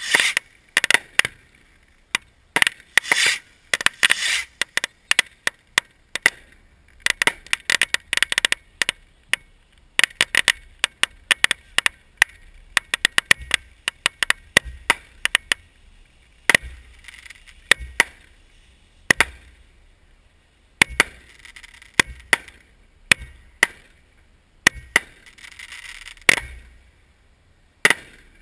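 Fireworks going off in quick succession: dense volleys of sharp cracks and pops, with a few deeper booms and hissing bursts in the second half, dying away near the end.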